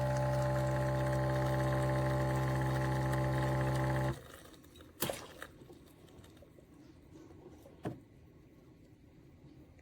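Espresso machine running with a steady electric hum that cuts off suddenly about four seconds in, followed by two sharp clicks a few seconds apart.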